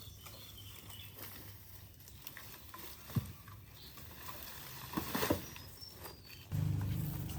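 Faint rustling and light ticking with a couple of short knocks, then near the end a steady low machine hum starts suddenly.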